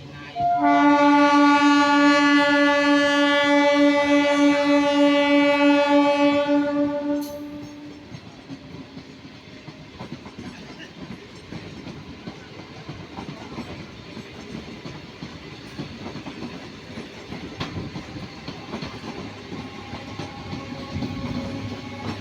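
Train horn sounding one long steady blast of about seven seconds, then a train rolling past with a steady clatter of wheels on the rails.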